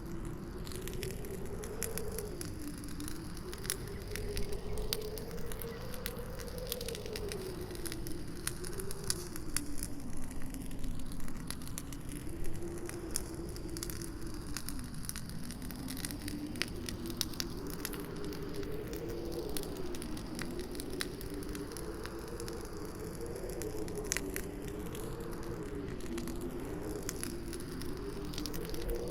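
Campfire crackling with frequent sharp pops, over a steady howling wind whose pitch slowly wavers up and down.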